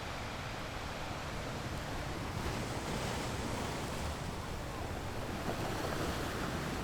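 Sea waves washing in: a steady rush of surf that swells a little about two and a half seconds in.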